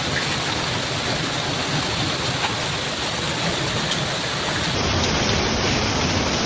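Heavy hail and rain pounding down in a dense, steady roar, with a few faint ticks of single impacts. The sound changes abruptly about five seconds in.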